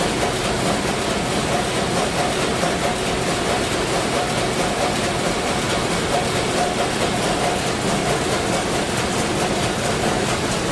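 Sulzer 12RTA96C two-stroke low-speed marine diesel main engine running steadily at about 70 rpm in its engine room, a dense, even mechanical noise with fine rapid ticking over it.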